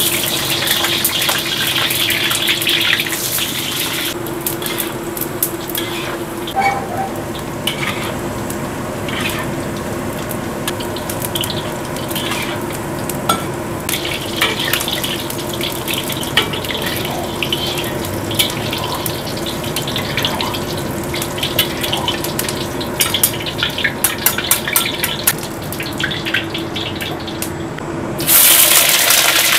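Cut eggplant deep-frying in hot oil in a wok, a steady sizzle and crackle, with clicks of a spatula turning the pieces. Near the end a fresh handful of eggplant dropped into the oil sets off a sudden loud burst of sizzling.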